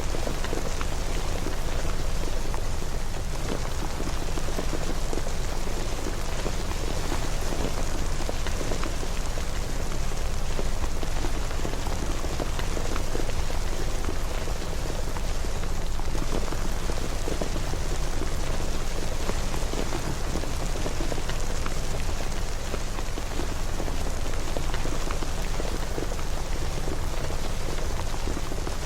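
Steady rain falling, an even patter with a constant low rumble underneath.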